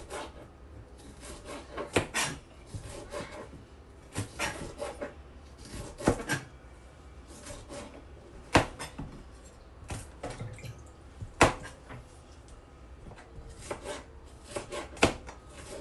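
Knife cutting vegetables on a cutting board: uneven, unhurried knocks of the blade on the board, with a few sharper, louder chops among them.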